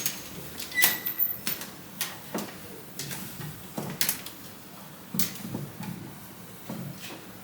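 A series of irregular clicks and knocks, about one or two a second, of hard household objects being handled and set down, with a brief faint ringing tone about a second in.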